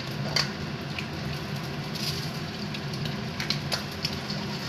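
Eggs and chopped greens sizzling in a wok over a gas burner, with a metal spatula clicking and scraping against the wok a few times, three quick taps about three and a half seconds in.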